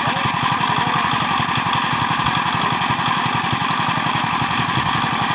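A truck engine running steadily at idle, with an even, rapid low beat.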